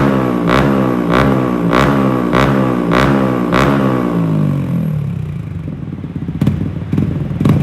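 Yamaha MT-15's 155 cc single-cylinder engine through its exhaust, revved in quick repeated throttle blips, each about half a second apart, rising and snapping off. About five seconds in it settles back to idle, with a few sharp cracks near the end.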